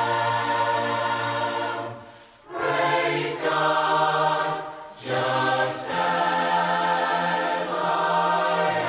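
A group of voices singing a hymn a cappella in harmony, in long held notes with short breaks between phrases about two and five seconds in.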